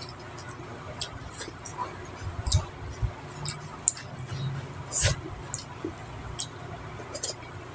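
Close-miked eating sounds: wet chewing and irregular lip smacks and small clicks, with a soft squish of fingers picking apart soft braised fish.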